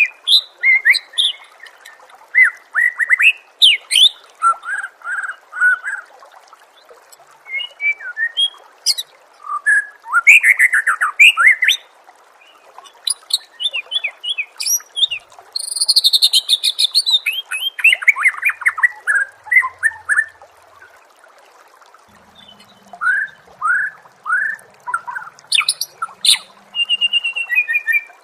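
White-rumped shama (murai batu) singing a long, varied song of loud whistles, fast trills and rising and falling sweeps, in phrases broken by short pauses, over a faint hiss.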